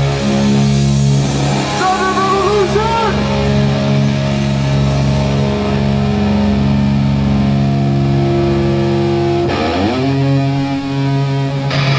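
Live hardcore band playing: distorted electric guitars and bass hold long, loud chords, then slide in pitch into a new chord about ten seconds in.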